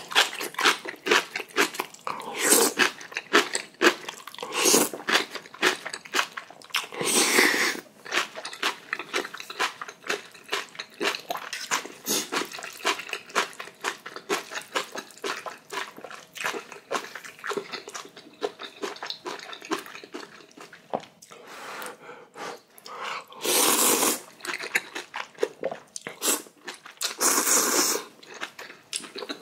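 Close-up chewing and crunching of a big mouthful of kimchi, many quick crisp chews throughout, with a few louder, longer sounds about a quarter of the way in and twice near the end.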